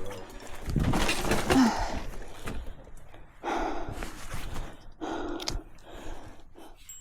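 A person breathing hard in heavy sighs and gasps, worn out from pushing a loaded bicycle uphill. A loud rustling knock comes about a second in.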